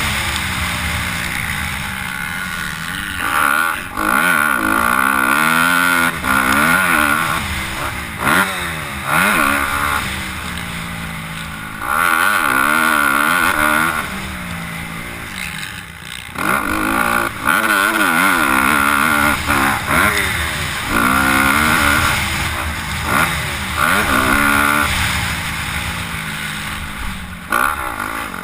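Motocross dirt bikes running on a track, their engines revving up and dropping off over and over as the throttle opens and closes. The sound swells and fades every few seconds as bikes come closer and move away.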